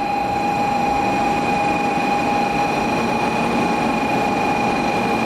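Shinkansen bullet train running, a steady rush of noise with a constant high whine over it.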